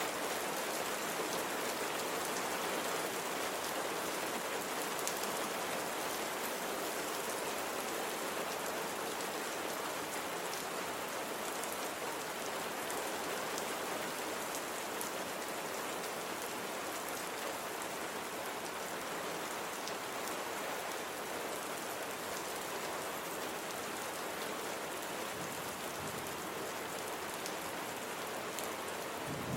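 Steady rain falling on a surface, with fine drop ticks over an even wash.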